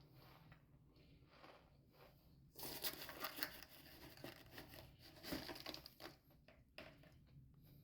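Close-up crunching: faint rustles first, then a few seconds of dense, crisp crackling as something brittle is crushed, tailing off into a few separate cracks near the end.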